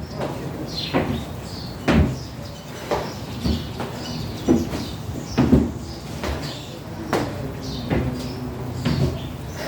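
Feet thudding onto a plyo box and back down to the floor during repeated dumbbell box step-up-and-overs, a thump about every second.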